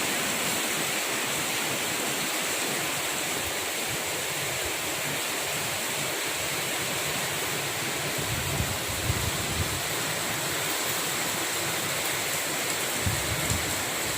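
Steady rushing hiss of storm rain and wind, with low rumbling gusts buffeting the microphone a little past halfway and again near the end.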